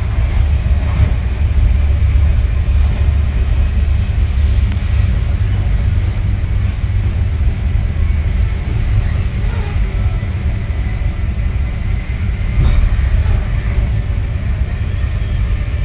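Steady low rumble of a passenger train coach running at about 110 mph, heard from inside the coach: wheels on rail, with a few light knocks.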